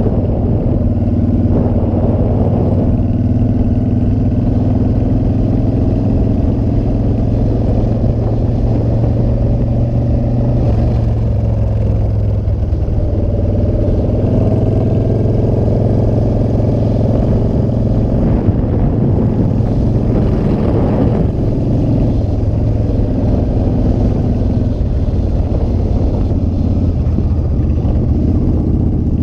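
Motorcycle engine running under way at a steady cruise, its pitch rising and falling gently with changes in speed.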